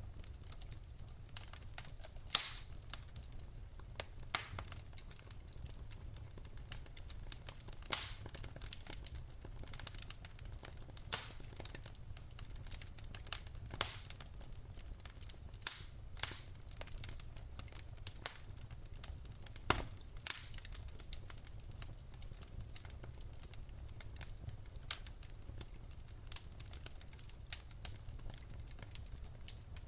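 Wood fire crackling in a fireplace: irregular sharp pops and snaps from burning logs, a few each second, over a steady low rumble of the flames.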